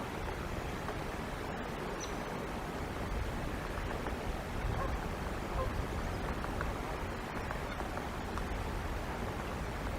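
Steady outdoor noise with a few faint, brief bird calls.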